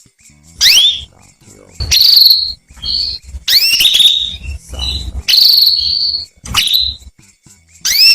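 Female canary calling: a run of short, loud chirps that sweep upward in pitch, about one a second, some ending in a brief held note.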